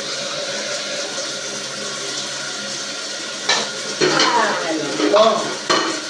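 Running water, then dishes and cutlery clattering and knocking together from about three and a half seconds in, as in washing dishes at a sink.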